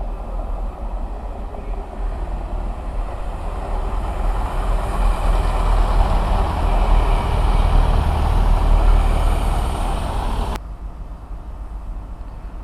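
A train running through the station, its rumble building to a peak with a faint higher whine, then cut off suddenly about ten and a half seconds in.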